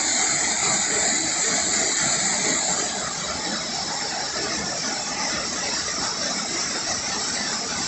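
Waterfall and river water rushing steadily, a little quieter from about three seconds in.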